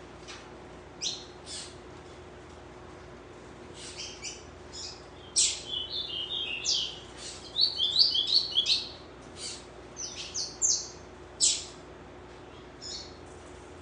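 Papa-capim seedeater (Sporophila) giving sharp, scattered chip calls. From about five to nine seconds in it breaks into a rapid twittering song phrase, then goes back to a few separate chips.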